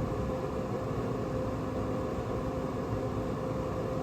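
Traeger Scout pellet grill running with its combustion fan blowing, a steady hum with a constant mid-pitched tone, as the grill heats up toward its set temperature.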